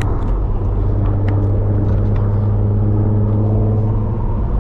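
Car driving on a rough road heard from inside the cabin: a steady low engine and road rumble, with a few light ticks and knocks from bumps.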